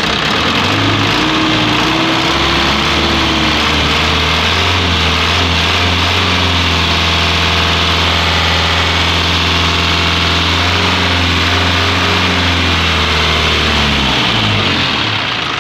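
Isuzu 4HF1 four-cylinder diesel engine running, raised to a higher speed about two seconds in, held steady, then dropping back near the end. It now runs smoothly after a clogged, defective injector nozzle was replaced, with no more misfire or shaking.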